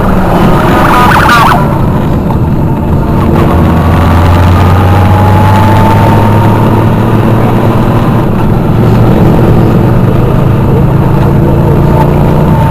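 Motorcycle engines running steadily, with a brief sharper sound about a second in.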